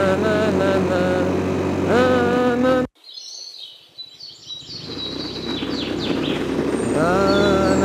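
Moped engine running, its pitch rising and falling with the throttle, until the sound breaks off suddenly about three seconds in. Birds chirp after the break. Near the end a moped engine is heard again drawing closer, its pitch rising as it speeds up.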